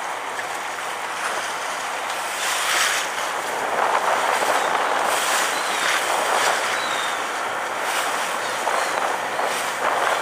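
Steady rushing noise of a sightseeing boat under way: wind on the microphone and water along the hull, swelling in surges every couple of seconds.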